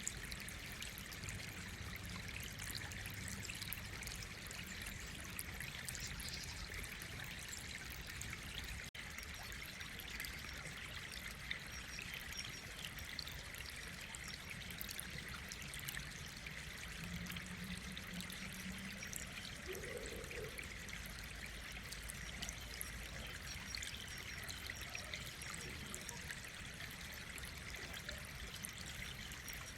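Steady trickling, running-water-like noise, with faint small clicks scattered through it.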